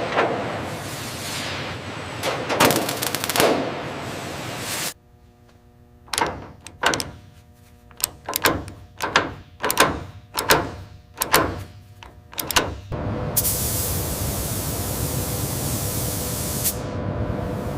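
Factory machinery noise in three parts: a hiss with a few swelling whooshes, then about a dozen sharp knocks over a low steady hum, then a steady spray-like hiss.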